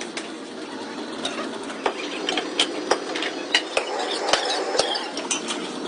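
Workshop machinery running steadily, with irregular sharp metallic clicks and knocks on top.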